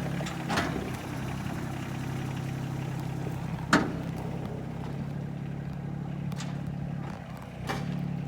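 Tractor engine running steadily while towing a dead truck by a chain, with a few sharp knocks, the loudest a little under four seconds in.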